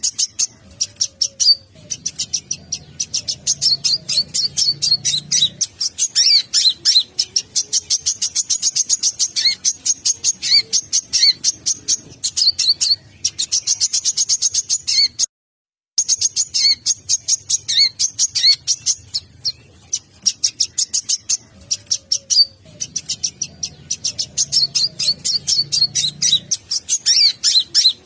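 Konin × sogon hybrid sunbird (olive-backed × crimson sunbird cross) singing nonstop: a fast stream of high, thin chirps and trills. The song breaks off for under a second about halfway, then goes on.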